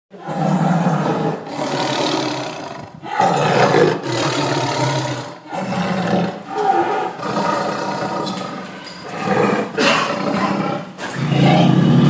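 Lion roaring: a string of about ten loud, rough roars, each around a second long, with short breaks between them.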